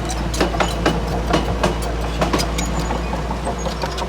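Komatsu D31P crawler bulldozer working, its diesel engine running with a steady low drone under irregular metallic clanks and clicks, several a second, that are loudest in the first couple of seconds.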